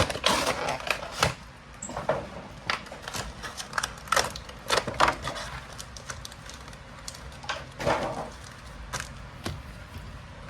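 Cardboard Pokémon card box being opened and its contents handled by hand: irregular crackles, scrapes and taps of packaging, with a louder crackling stretch about eight seconds in.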